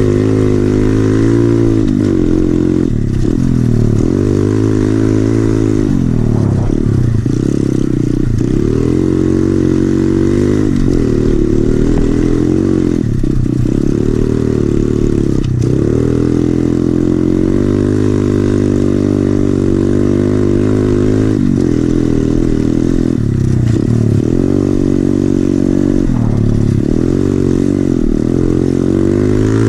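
SSR 110cc pit bike's single-cylinder four-stroke engine through an FMF exhaust, ridden hard. It revs up again and again and falls off sharply between pulls, every two or three seconds, as the rider works the throttle and gears.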